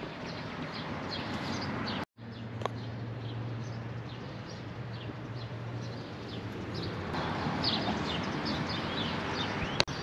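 Birds chirping repeatedly over steady background noise. The sound cuts out for a moment about two seconds in, and a low steady hum runs for a few seconds after that.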